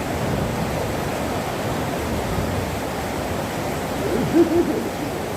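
Steady rain falling, an even hiss. About four seconds in come a few short low hoot-like sounds.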